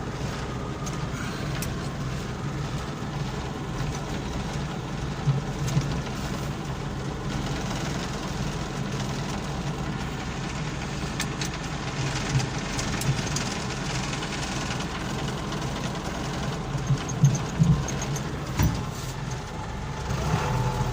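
Front-end loader's diesel engine running steadily, heard from the cab, with a few short metal knocks as the bucket is hooked onto the quick coupler: two about five seconds in and a cluster about three seconds before the end.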